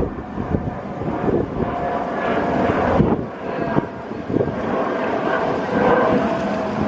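An aircraft's engines droning as it passes, with a steady whine of several held tones over the engine noise.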